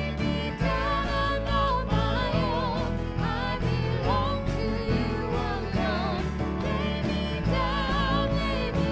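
Song with a singing voice, sung with vibrato, over instrumental backing with a steady bass.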